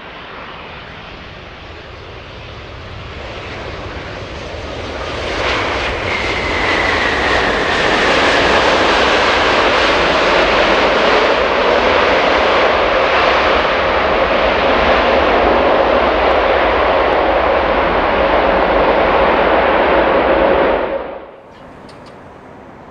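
Boeing 787-9 Dreamliner's jet engines passing close, growing louder over the first few seconds and then staying loud. A high whine drops in pitch as it goes by, over a steady lower whine. The sound cuts off suddenly near the end.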